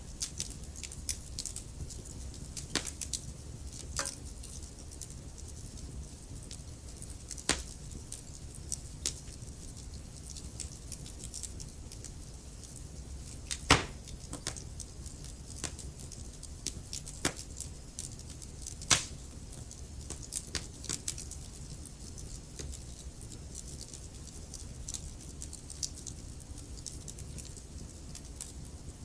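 Wood logs burning in a fireplace: constant small crackles, with a louder pop every few seconds, the sharpest about halfway through, over a low steady rush of the flames.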